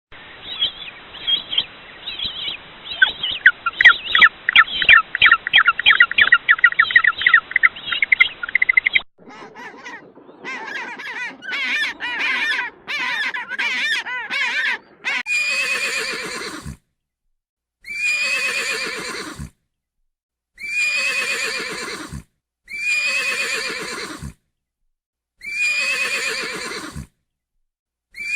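Animal calls from a sequence of different animals. First comes about nine seconds of rapid, squawking bird-like calls, then a different chattering call. From about 15 seconds in there are six whinnying calls, each about a second and a half long and falling in pitch, with short gaps of silence between them.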